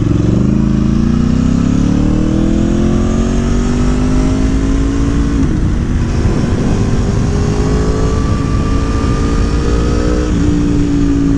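Aprilia Tuono V4 Factory motorcycle engine, fitted with a Gabro Racing Stage 3 kit and an RSV4 airbox, accelerating through the gears. The revs climb, drop at an upshift about five seconds in, climb again more slowly, and drop at a second upshift near the end, with wind rushing on the microphone.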